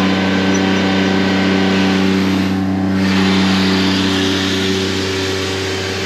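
A Cat machine's diesel engine running at a steady speed, a constant low hum.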